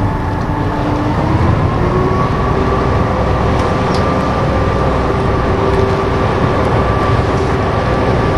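Canal tour boat's engine running steadily, its note rising over the first second or two and then holding.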